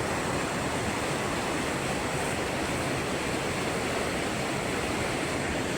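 Steady rush of flowing water from a river or waterfall, even and unbroken.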